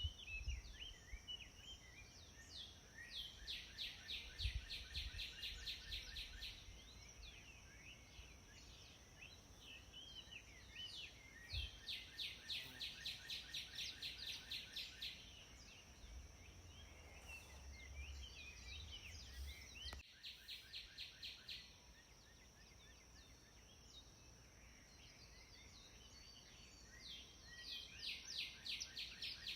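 Wild birds singing: a songbird repeats a fast trill of evenly spaced notes in bouts of two to three seconds, four times over, with softer chirps from other birds between and a steady high-pitched tone underneath.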